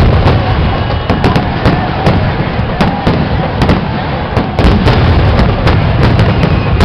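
Aerial fireworks display: a rapid, irregular string of loud shell bursts and sharp cracks, several a second, over a continuous low rumble.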